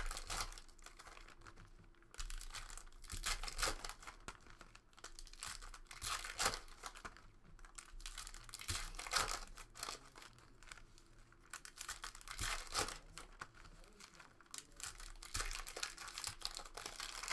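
Trading-card pack wrappers being torn open and crinkled, in irregular bursts of rustling and crackling.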